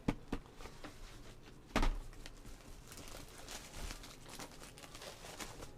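Folded cardboard shoe boxes and paper bags being handled: a couple of clicks at the start, a loud knock just under two seconds in, then rustling and crinkling.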